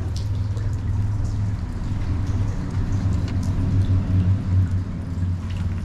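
Boat motor running at a steady low hum, with rain ticking and pattering around it.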